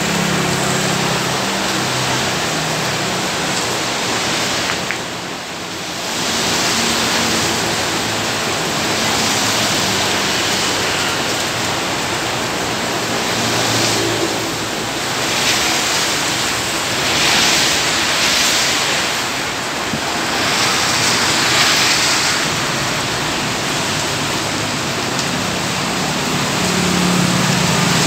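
Heavy rain pouring down in a loud, steady hiss, easing for a moment about five seconds in.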